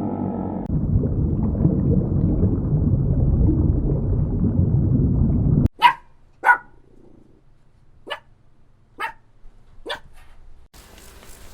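A dog barking five short, sharp barks about a second apart. The barks come after a low, rough, continuous animal sound that cuts off abruptly about six seconds in.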